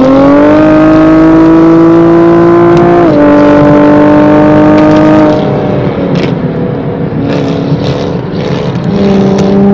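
Car engine pulling hard under acceleration, its pitch climbing and then holding. It drops suddenly at an upshift about three seconds in, pulls again, and lets off about five seconds in. A brief rev comes again near the end.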